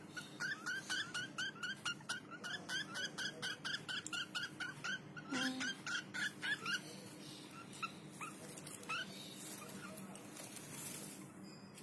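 Baby lovebird chirping: a quick run of short, high, rising squeaks, about three or four a second, that thins out to a few scattered chirps after about seven seconds.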